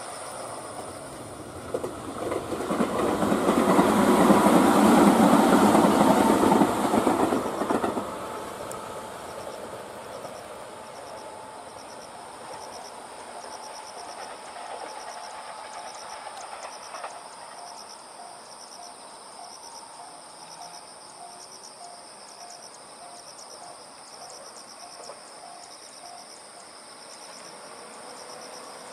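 A train passing by, swelling to its loudest about four to seven seconds in and then dropping away. Crickets chirp in a steady repeating rhythm underneath.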